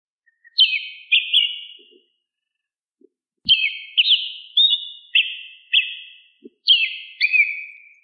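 Bird chirping: short, high notes with quick pitch glides, in three bursts with silence between.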